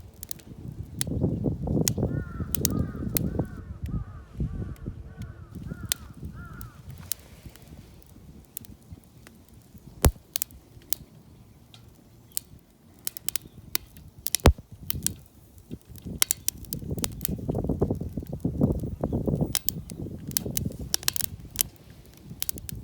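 Scattered sharp snaps and crackles with bouts of rustling, handling noise. Two louder cracks stand out midway. A bird calls in a quick run of short repeated notes in the first few seconds.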